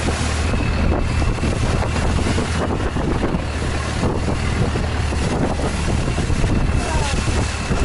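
Long-tail boat's engine running steadily under way, a constant low drone, with wind buffeting the microphone.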